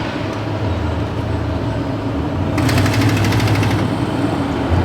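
A motor vehicle engine running with a steady low rumble; about halfway through, a rapid mechanical rattle starts over it and the sound grows louder.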